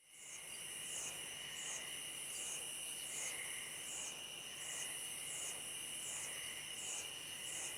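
Insects chirring: a steady high-pitched buzz with a faster pulsing trill above it, swelling about every three quarters of a second.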